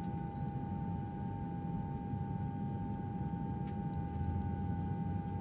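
Airplane engine sound effect of a jet in level flight: a steady low rumble with a constant high-pitched hum.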